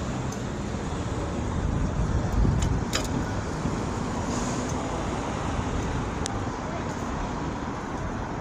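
City street traffic noise: a steady low rumble of passing vehicles, with a few faint clicks.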